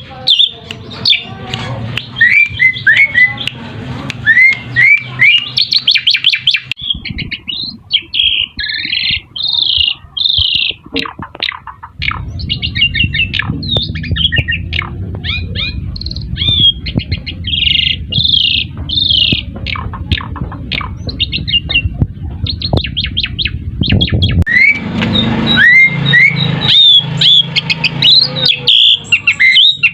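Pied starlings (jalak suren) singing: rapid chattering, upward-sliding whistles and harsh squawky notes. The song changes abruptly about seven, twelve and twenty-five seconds in, with a low hum beneath the middle stretch.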